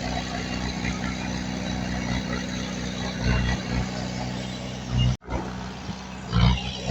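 Diesel engine of heavy earthmoving machinery running steadily. The sound drops out abruptly for an instant about five seconds in, and a short louder surge of the engine comes near the end.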